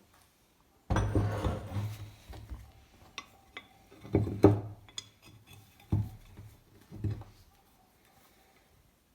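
Rusty metal vise parts being handled on a workbench: a scraping rub about a second in, a couple of light clinks, then four dull knocks as parts are set down.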